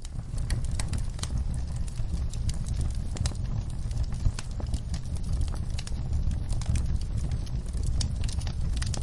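Wood fire crackling: a steady low rumble of flames with frequent irregular sharp pops and snaps.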